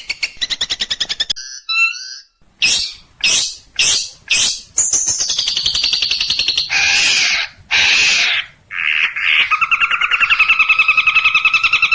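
Long-tailed shrike (cendet) song in a varied run. It opens with a rapid trill, then short chirps, four quick harsh sweeping notes, a long falling buzz and harsh rasping calls, and ends with another fast trill.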